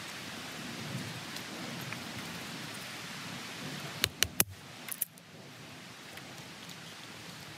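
Steady rush of a nearby river, with a quick run of sharp cracks about four seconds in, three close together and two more a moment later.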